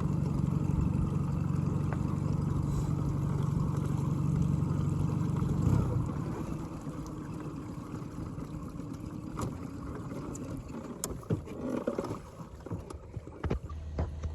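Small fishing boat on the lake: a steady low rumble for about the first six seconds, then quieter water and hull noise with a few sharp knocks near the end.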